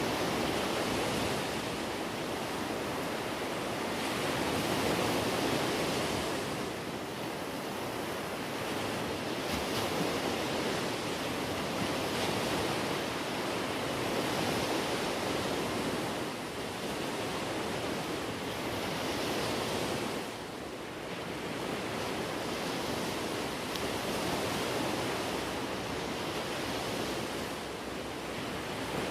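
Open-sea waves: a steady rush of water that swells and eases every few seconds, with some wind mixed in.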